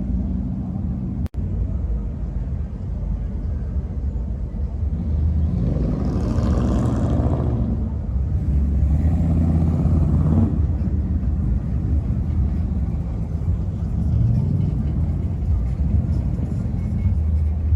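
Car engines rumbling steadily, swelling louder twice, about five and a half seconds in and again around nine seconds, with music playing.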